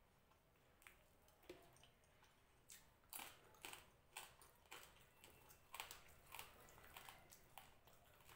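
Faint sounds of a person chewing food, with sharp mouth clicks that come thick and irregular from about three seconds in.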